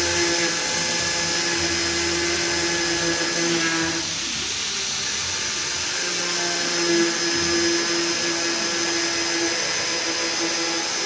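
Handheld marble cutter's electric motor running with a steady whine and hiss; the motor note drops away for about two seconds around four seconds in, then comes back.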